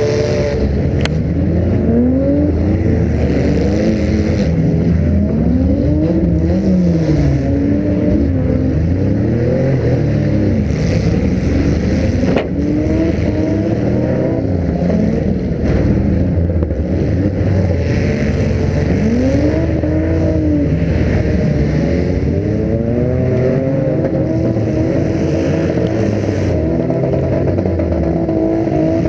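Demolition derby car's engine revving up and down over and over under hard throttle. A couple of sharp knocks cut through, about a second in and again near the middle.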